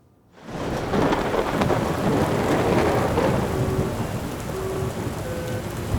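Thunder rumbling over heavy rain, swelling up suddenly about half a second in and holding loud.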